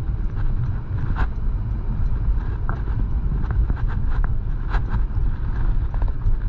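Vehicle driving at a steady low speed: a constant low rumble of engine and road noise, with scattered light clicks and rattles.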